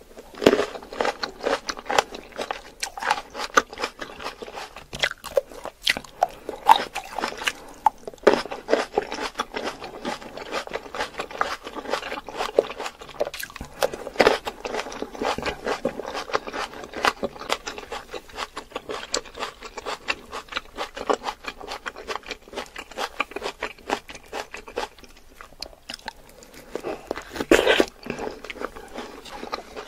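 Close-miked mouth sounds of a person biting and chewing fresh fruit: a dense run of wet clicking and crunching, with a louder bite every few seconds.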